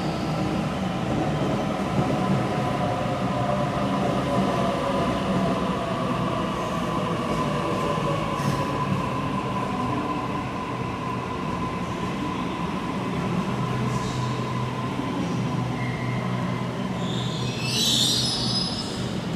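Sydney Trains Waratah Series 2 electric train at the platform: a steady electrical hum with a whine that slowly falls in pitch over the first several seconds, then a brief high squeal near the end.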